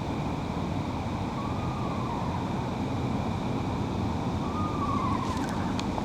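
Eastern screech owl singing softly, two faint quavering notes that rise and then fall in pitch. Though the bird is close, it sounds distant because it is calling quietly.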